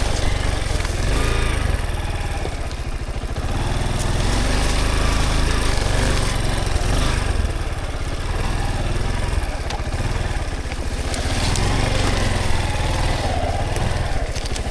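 Dirt bike engine running steadily at low revs, its pitch rising and falling with the throttle.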